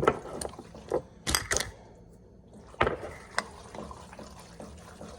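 A few short, sharp clicks and knocks of kitchen containers and utensils being handled while seasoning a pot of goulash, with a faint sloshing of liquid.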